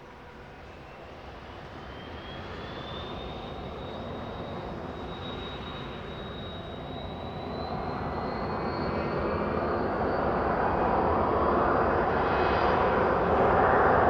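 Twin Pratt & Whitney JT15D turbofans of a Cessna Citation V jet, a high whine rising in pitch over a roar that grows steadily louder.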